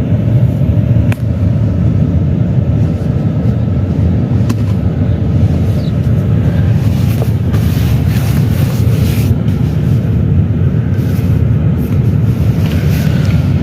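Steady low rumble of a car's engine and road noise, heard from inside the car.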